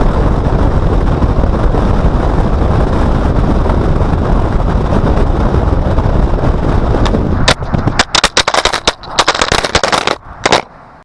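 Loud, steady wind and road roar on an outside-mounted action camera's microphone. About seven seconds in it gives way to a rapid run of sharp clattering knocks as the camera strikes and tumbles along the pavement, and the knocks stop shortly before the end.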